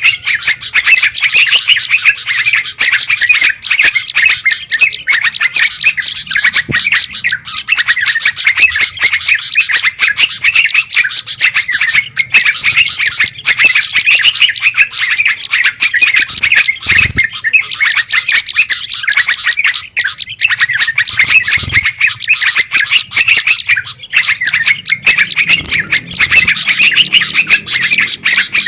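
Dense, unbroken chatter and chirping of many small birds at once, a noisy flock recording played as a lure call to draw in wild birds such as bulbuls and prinias.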